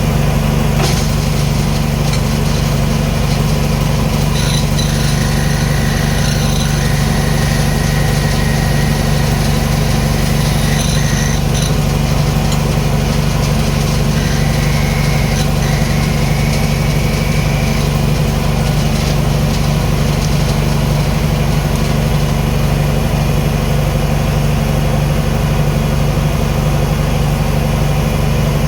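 Wood lathe running steadily with a constant motor hum while a turning tool cuts the spinning rosewood tenon. Twice the cut adds a thin high whine lasting several seconds.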